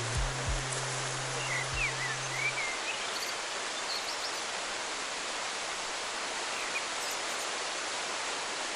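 Steady rush of stream water, with a small bird chirping a few short calls.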